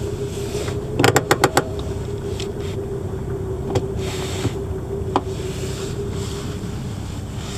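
Jaguar Mk 2's XK straight-six engine idling steadily after a cold start. A quick run of about five sharp clicks comes about a second in, and two single clicks come later.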